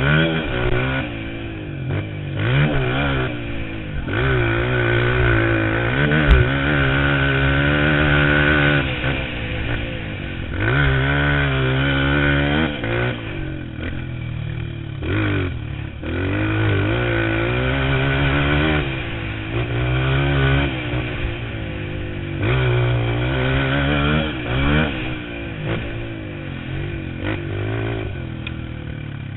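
Motocross bike engine revving hard and easing off again and again, its pitch climbing and dropping with throttle and gear changes, fading away over the last few seconds.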